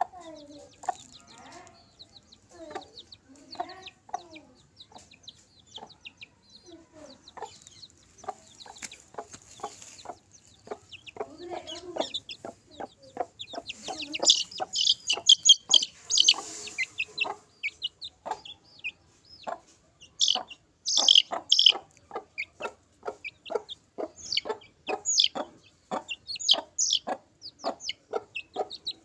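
Aseel chickens clucking in a quick, even series of short calls. High-pitched chirps join from about halfway through.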